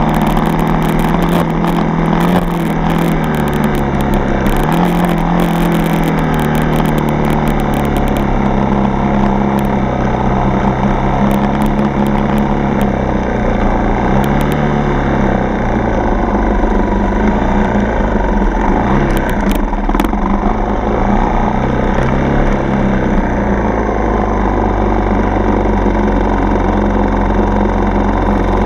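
A four-stroke single-cylinder dirt bike engine under way, its note rising and falling as the throttle is worked on the trail. Crackling clicks run over the first several seconds.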